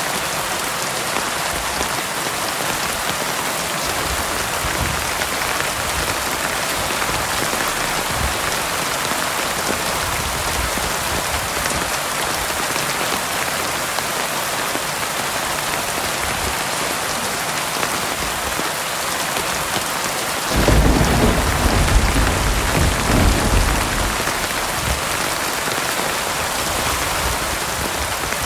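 Heavy rain falling steadily. About two-thirds of the way in, thunder breaks out suddenly and rumbles deep for three or four seconds before fading back under the rain.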